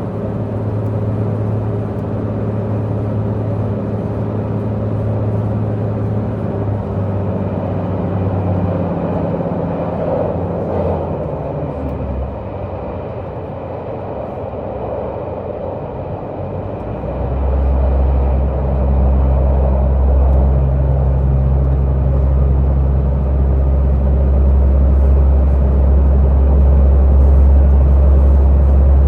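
Diesel multiple unit's diesel engine heard from inside the passenger car, running with a steady drone. It eases off about twelve seconds in, then from about seventeen seconds it comes back louder, with a lower steady drone as the engine powers up again.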